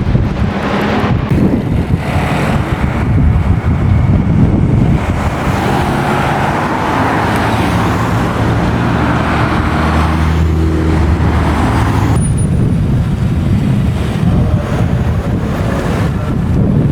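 Classic car engines running as cars move past, with one engine holding a steady note from about six to twelve seconds in.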